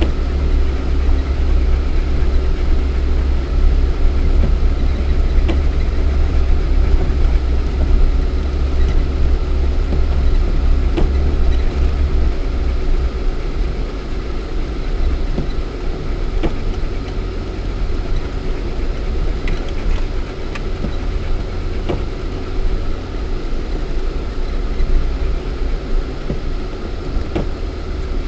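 Lada Niva 1.7i 4x4 driving off-road, heard from inside the cabin: a steady low engine and drivetrain rumble with scattered sharp knocks, the rumble easing a little about halfway through.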